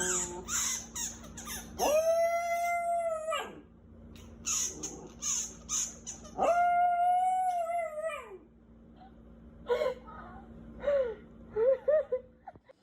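A dog howling: two long held howls a few seconds apart, each rising at the start and falling away at the end, followed by a few short whimpering yelps near the end.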